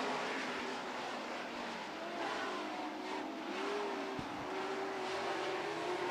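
A pack of dirt-track super trucks racing around the oval, their engines running hard together. Several engine notes drift up and down in pitch as the trucks lap.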